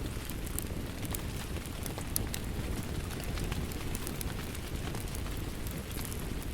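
Wood fire crackling, with irregular sharp pops and snaps over a steady low rumble of rain.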